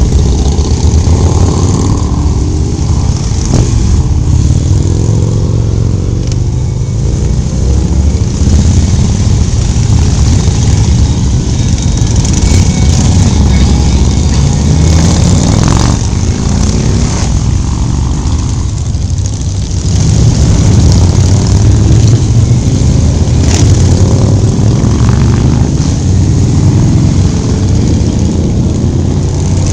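Motorcycle engine running on the road with heavy wind and road noise, rising and falling with the throttle; it eases off twice and picks up again about two-thirds of the way in.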